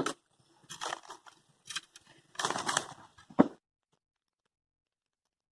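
Thick dry bark being pulled and broken off old wood: a few short crackling, tearing bursts, then one sharp knock about three and a half seconds in.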